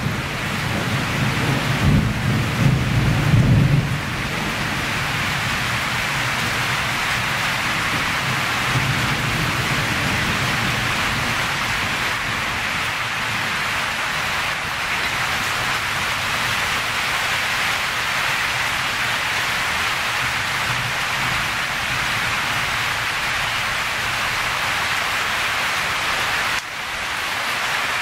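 Heavy rain falling steadily on the forest in a storm, a continuous hiss. A low rumbling sits under it for the first four seconds and returns faintly around ten seconds in.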